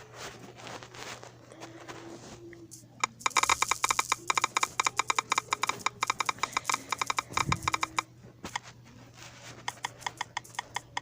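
Smartphone virtual keyboard key-press sounds played through the phone's speaker: rapid clicks, several a second, starting about three seconds in and running for about five seconds, then a few scattered clicks.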